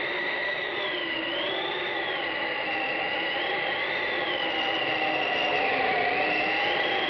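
Eerie sound effect from a Halloween sound-effects record: a steady hissing drone with whistling tones that slowly rise and fall.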